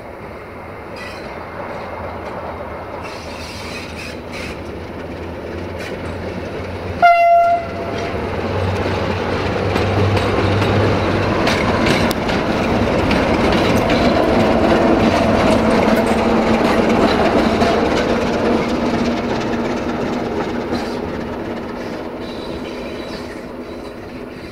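A train approaching and passing by, with one short horn blast about seven seconds in. Its passing noise swells to a peak in the middle and fades away near the end.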